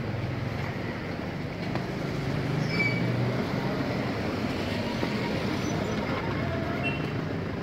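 Car engines running close by in a narrow street, over general traffic noise, swelling a little about three seconds in.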